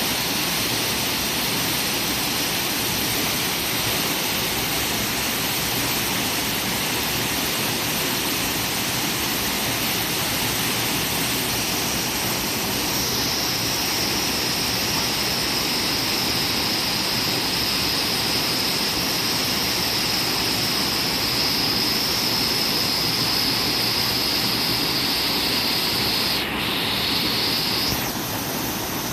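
Waterfall pouring, a steady rush of water. A thin high whine joins about halfway through and stops shortly before the end.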